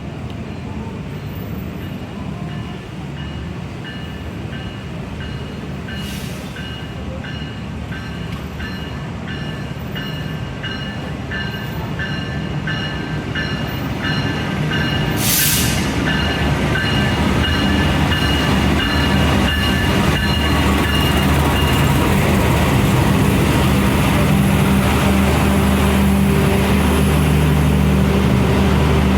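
KA Anggrek passenger train running, its rumble growing louder from about halfway through as the train picks up speed. A repeating high beep sounds about twice a second through the first two-thirds. A short hiss comes in the middle.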